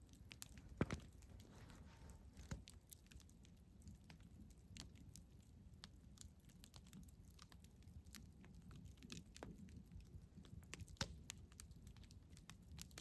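Campfire crackling faintly: scattered small snaps and pops of burning wood over a low rumble, with a couple of louder pops about a second in and near the end.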